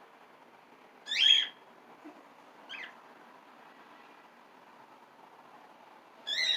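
Pet cockatiel calling: three short, shrill calls, a loud one about a second in, a fainter one near three seconds and another near the end.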